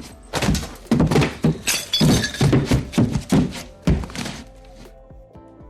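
A quick run of thuds and knocks, about a dozen in four seconds, over background music; the knocks stop about four seconds in and the music carries on quietly.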